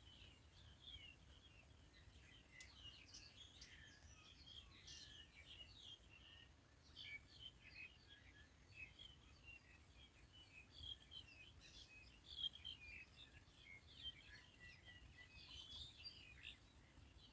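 Many small birds chirping at once, a faint dense chorus of short overlapping calls, over a low steady rumble.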